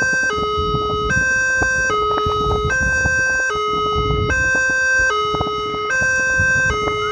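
Level-crossing warning siren from a horn loudspeaker, alternating between a higher and a lower tone and switching about every 0.8 seconds, over a low rumble.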